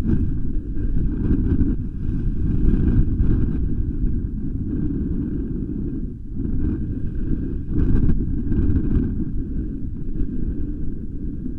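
Wind buffeting the nest camera's microphone: a loud, low rumble that rises and falls in gusts.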